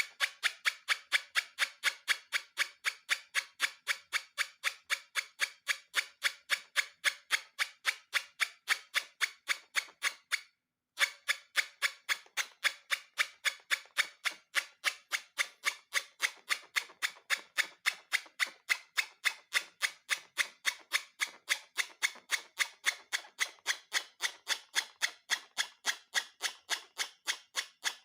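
A steady, even train of sharp clicks, about three a second, with a short break about ten seconds in.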